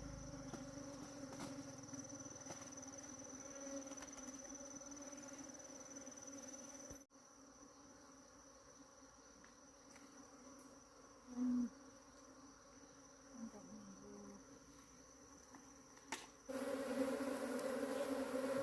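Bees buzzing in a steady low hum, with a thin high insect trill that stops abruptly partway through. The buzzing gets louder again near the end.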